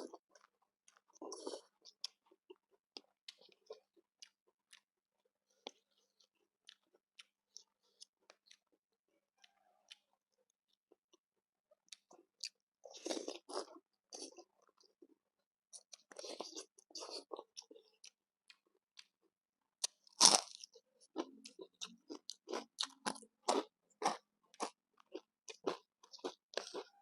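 Close-up eating sounds: a person chewing and crunching food with the mouth near the microphone. It comes in short spells of quick clicks and crunches, with one sharp crunch about twenty seconds in followed by steady rapid chewing.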